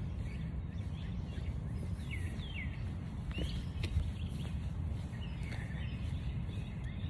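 Birds chirping now and then, short calls that slide in pitch, several in the middle of the stretch and a few more near the end, over a steady low outdoor rumble.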